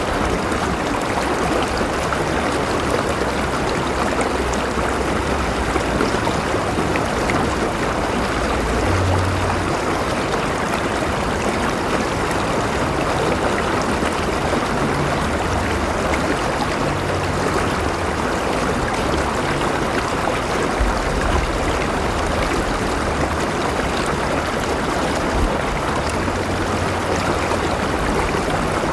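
River water flowing steadily, a continuous rushing and gurgling with a low rumble underneath.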